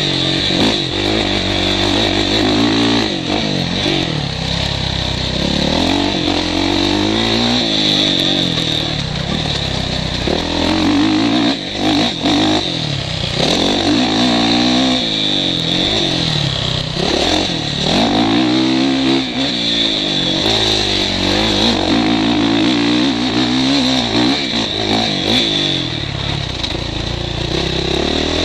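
Motocross bike engine revving up and falling back over and over as the rider accelerates and shifts, picked up by a helmet-mounted camera, with a steady hiss over it.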